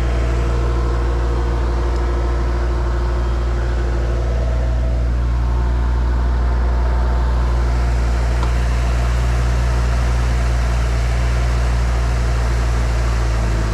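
Diesel engine running at a steady idle, a deep even hum that does not change.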